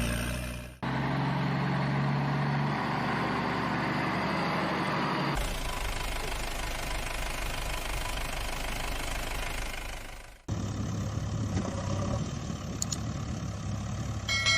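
Vehicle engine sound effects spliced together: an engine running steadily, broken by abrupt cuts about one, five and ten seconds in, each segment a different engine recording.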